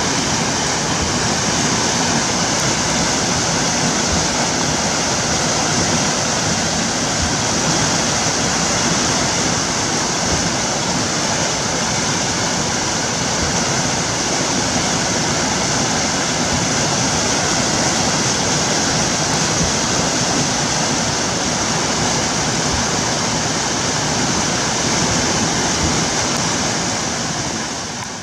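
Heavy rain pouring down in a thunderstorm: a loud, steady hiss that never lets up, fading out at the very end.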